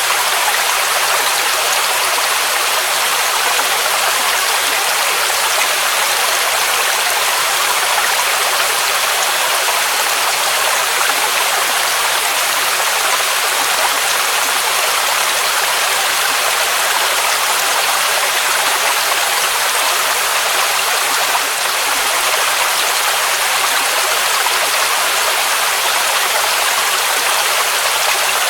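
Waterfall rushing without a break: a steady, bright hiss of falling water with little deep rumble.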